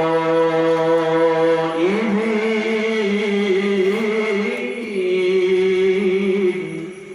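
A qari's solo voice reciting the Qur'an in a long melodic phrase of held, wavering notes. The pitch steps up about two seconds in, and the phrase fades out near the end.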